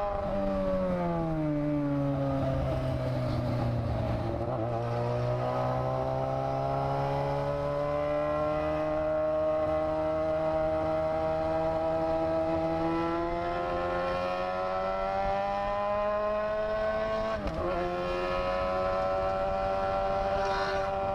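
Motorcycle engine running under way. Its pitch drops over the first two seconds as it slows, then climbs slowly for more than ten seconds of gradual acceleration. It breaks briefly about seventeen seconds in, as at a gear change, then runs steady.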